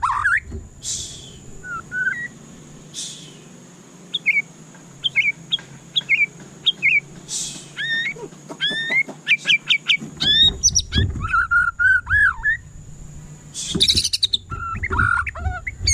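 White-rumped shama singing: a varied run of clear whistled notes and quick rising and falling chirps, broken by a few short harsh rasps.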